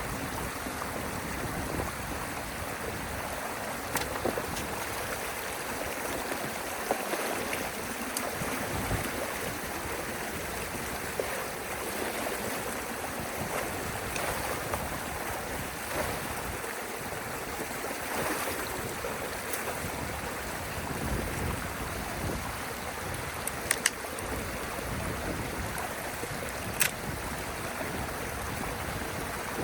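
Water rushing steadily through a drainage channel where a beaver dam has been broken open, with a few sharp knocks here and there.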